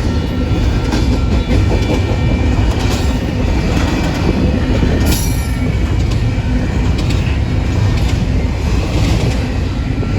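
Freight train cars rolling past close by: a steady heavy rumble of steel wheels on rail, with clicks and clacks over the rail joints and faint squealing tones from the wheels.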